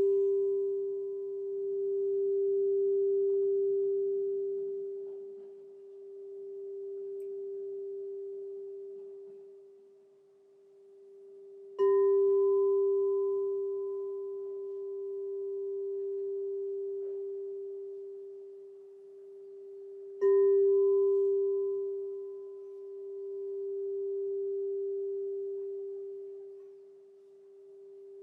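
Crystal singing bowl ringing with a pure, steady tone and a fainter higher overtone, its loudness slowly swelling and fading as it decays. It is struck again about twelve seconds in and once more about twenty seconds in, each strike sharp and then ringing on.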